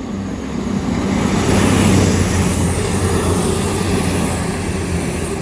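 Grand Central diesel multiple unit passing through the station. Its engine note is steady under rushing wheel noise that builds to a peak about two seconds in, then slowly fades.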